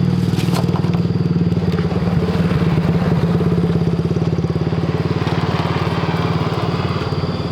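A small engine running steadily at an even speed, a continuous low pulsing hum.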